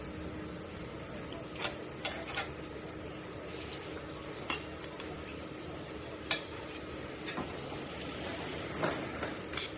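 Small metal objects being handled, giving scattered light metallic clinks and taps, about seven in all, the loudest about halfway through, over a steady faint hum.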